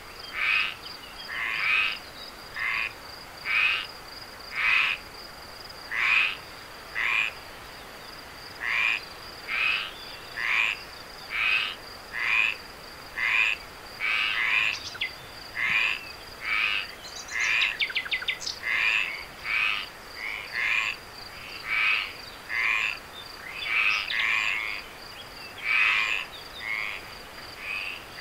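Frogs croaking in a steady series, about one call a second, over a constant high-pitched insect trill. Briefly, about two-thirds of the way through, a quick rattle of ticks joins in.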